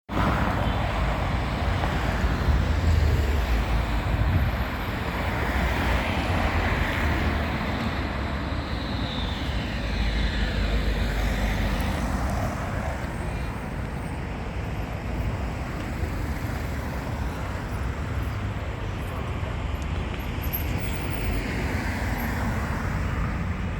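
Street traffic with a Končar tram running, loudest a few seconds in, and a high whine falling in pitch around the middle.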